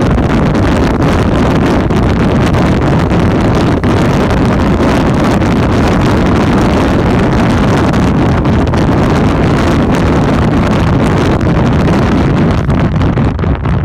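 Steady, loud wind buffeting the microphone of a motorcycle moving at speed, with the bike's running noise underneath.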